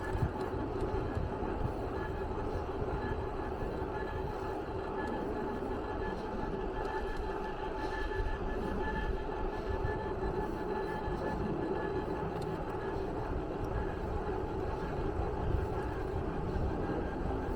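Steady mechanical rumble with a constant hum.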